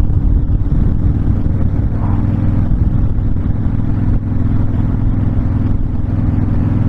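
Honda VTX1300 cruiser's V-twin engine running at a steady cruising speed, a constant low drone with no change in pitch, mixed with wind rush from riding without a windshield.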